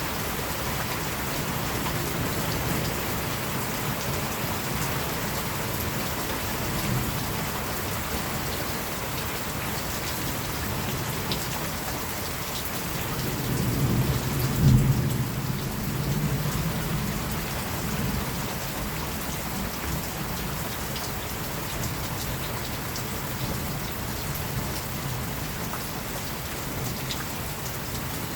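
Steady rainfall with a roll of thunder that builds about halfway through, peaks, and fades again over a few seconds.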